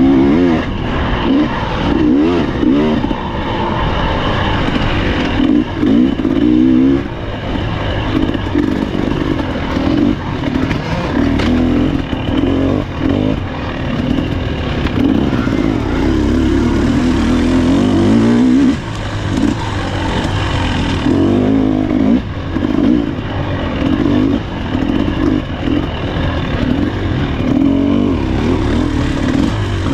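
Husqvarna TE300 two-stroke dirt bike engine revving up and falling back over and over as it is ridden hard off-road, with occasional knocks from the bike over rough ground.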